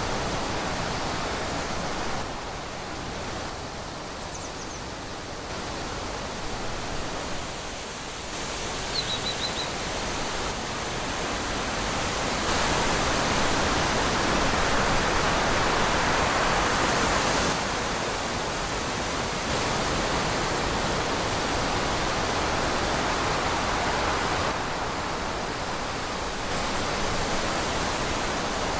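Wind rushing through trees, a steady noisy rush that swells louder about halfway through. Two brief high chirps, about four and nine seconds in.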